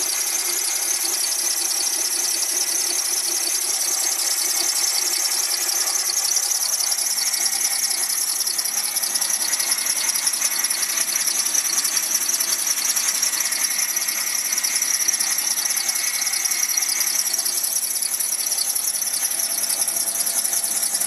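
Renault Symbol giving off a steady high-pitched whistling squeal. The owner cannot find its cause.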